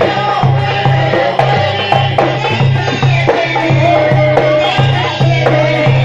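Egyptian simsimiyya folk music from a Port Said band: a steady pulsing low beat under an instrumental melody.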